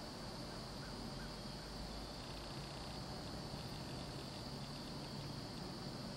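Quiet woodland ambience: a steady high hiss with a few faint ticks.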